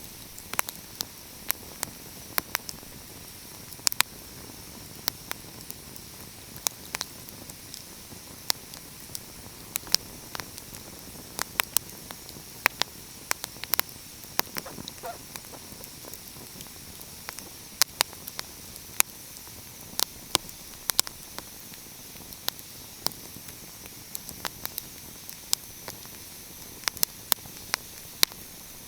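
Fire crackling: irregular sharp snaps and pops, sometimes several in quick succession, over a steady soft hiss.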